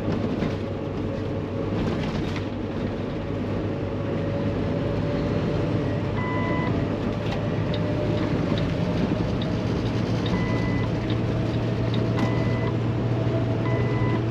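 Paccar MX13 diesel engine of a Kenworth T680 semi running steadily at road speed, heard from inside the cab over wet-road tyre noise. A short electronic beep sounds four times, in the second half.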